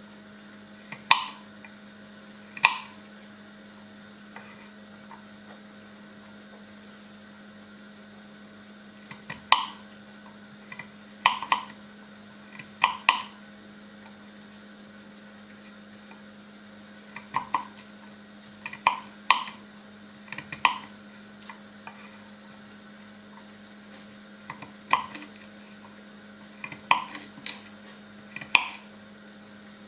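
Kitchen handling sounds: irregular sharp knocks and clinks of utensils and dishes, single or in short clusters, with a few quiet seconds in the first half. A steady low hum runs underneath.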